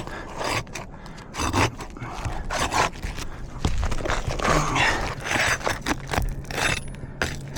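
An asphalt shingle being pried up and worked off its nails: repeated scraping and short clicks of the tool against the shingle, with two longer scraping passes. The shingle nearly tears as it comes free, a sign of a brittle, degranulated shingle that fails the repairability test.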